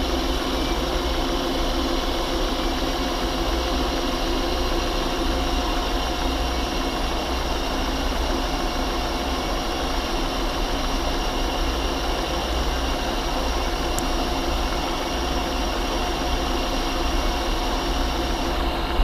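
Metal lathe running steadily as it turns a steel shaft, its motor and gearing giving a constant hum with several steady whining tones, during a light finishing cut. A high whine cuts off shortly before the end.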